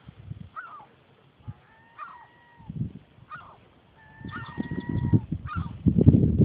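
Seagulls calling over and over: short bending cries and a couple of long held calls. Underneath is a lower rough noise that grows loud near the end.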